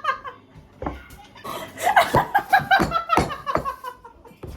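Laughter: a quick run of short, rhythmic laugh pulses that starts about a second and a half in, after a brief lull.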